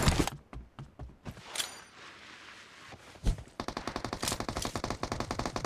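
Video game gunfire: a few scattered shots, then from about three and a half seconds in a rapid, steady burst of automatic fire at about ten rounds a second.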